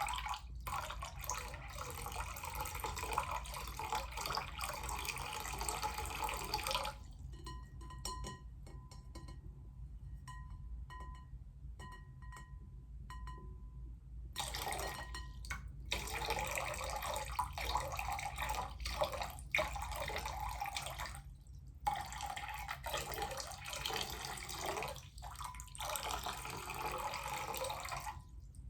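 Water poured into a bowl: a stream splashing for about seven seconds, then single drips plinking into the water, then several more pours with short breaks between them.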